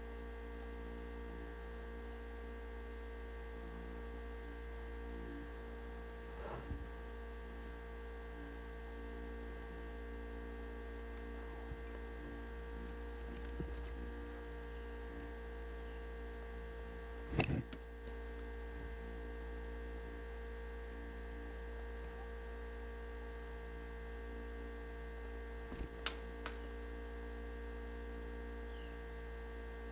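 Steady electrical hum made of several constant tones, broken three times by short clicks; the loudest click comes about halfway through.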